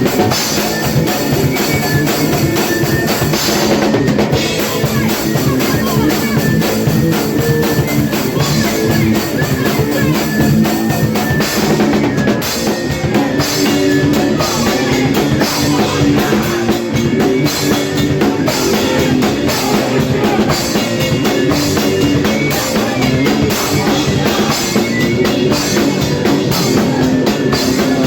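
80s-style hardcore punk played by a full band: drum kit with bass drum, plus guitar and bass, loud and continuous without a break.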